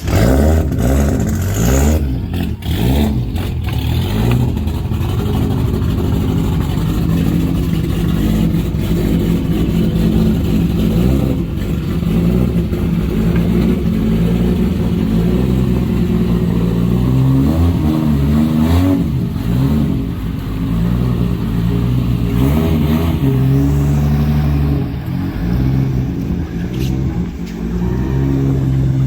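A car engine running loudly, idling and rising and falling in revs, with a few sharp knocks along the way; it is most likely the Supra drift car's 2JZ engine as the car is brought out.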